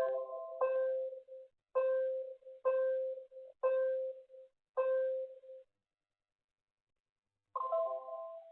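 Earthquake early-warning alert tones: an electronic beep with a chime-like start repeats about once a second, six times, then stops. Near the end a short multi-note chime sounds once.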